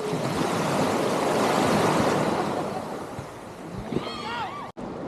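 A wave breaking and washing in: a rushing noise that swells for about two seconds and then fades. About four seconds in, a short high-pitched voice squeals a few times.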